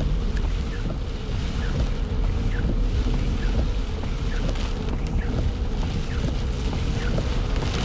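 Heavy downpour of rain pouring onto a stopped car, heard from inside the cabin as a steady rushing noise with a low rumble, the windshield wipers running at full speed.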